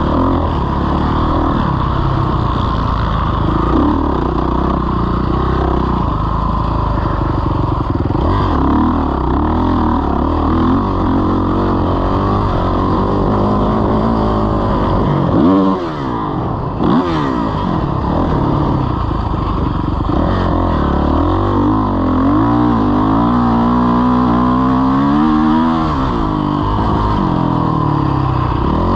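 Motocross bike engine running hard, its pitch rising and falling again and again as the throttle is worked. The throttle drops off briefly about sixteen seconds in.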